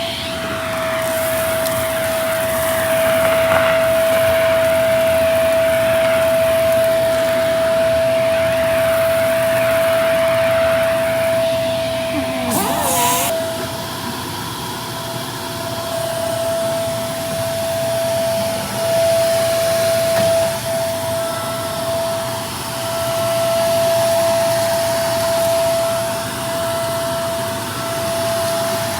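Vacuum cleaner running steadily with a constant whine, with one brief sharp click about halfway through.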